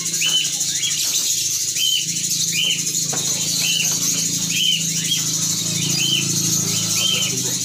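A bird chirping, a short call repeated about once or twice a second, over a steady high hiss and a low steady hum.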